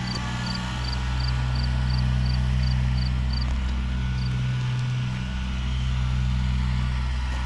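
A steady low, engine-like hum, with a short high chirp repeating about three times a second that stops about three and a half seconds in.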